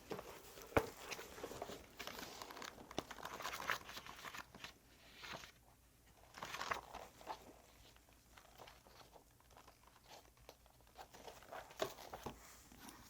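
Scattered rustling and small handling knocks at a low level, with a few sharper clicks, in a small quiet room.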